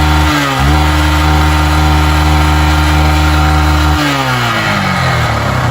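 Motorcycle engine revved up and held at high, steady revs for about three seconds, then let fall back toward idle. This is the throttle held open for a charging-system test.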